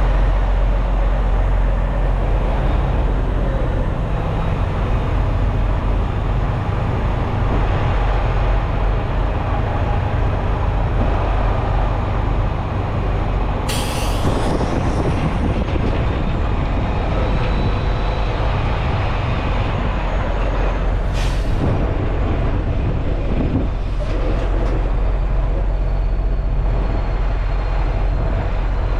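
Semi truck's diesel engine and road noise running as a steady low rumble, with two short air hisses from the air brakes, one about halfway through and one about seven seconds later.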